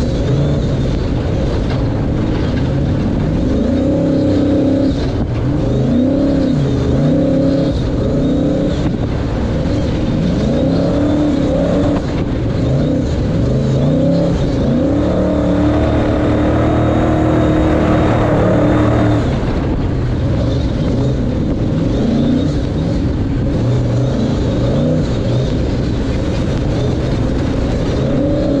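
Ford Ranger pre-runner race truck's engine revving hard, its pitch climbing and dropping back again and again with the throttle, with one longer high-revving pull about halfway through.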